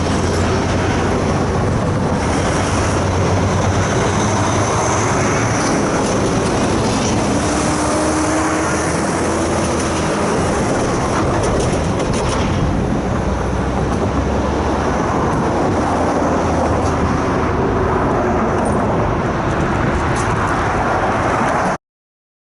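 Freight train rolling past with a steady rumble of wheels on the rails and occasional clicks; the sound cuts off suddenly near the end.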